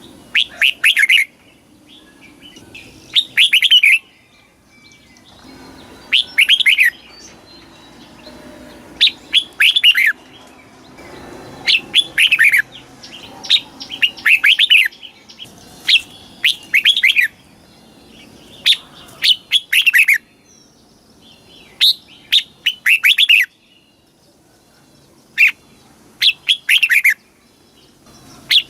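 Red-whiskered bulbul singing: short, quick phrases of a few bright chirping notes, repeated every two to three seconds.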